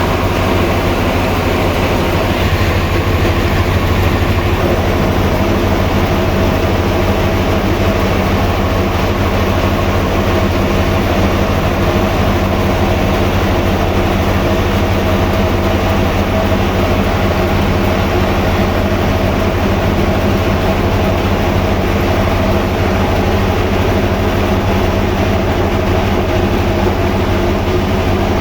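Large sawmill running steadily: a loud, even machine drone with a strong low hum and several steady tones above it.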